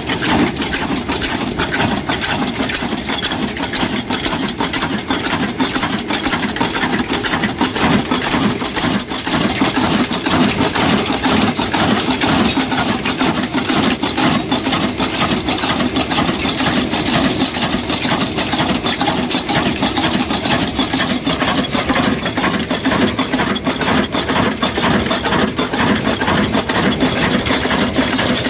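Old slow-speed stationary engine, the century-old 'black engine', running steadily with a continuous metallic clatter.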